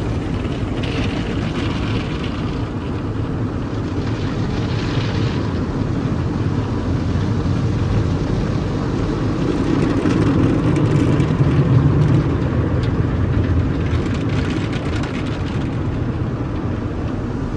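Automatic car wash machinery heard from inside the car's cabin: a steady mix of water spray and machine noise, with brief hissing swells, growing louder about ten seconds in before easing off.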